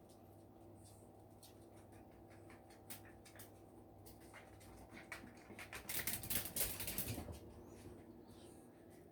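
A dog and a cat play-fighting: light scattered clicks and pattering, then a louder scuffle of rustling about halfway through that lasts a couple of seconds, over a faint steady hum.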